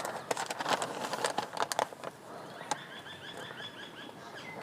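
Paper rustling and crinkling as a printed bill is handled, with sharp clicks in the first two seconds. About three seconds in, a bird chirps a quick run of about eight short chirps.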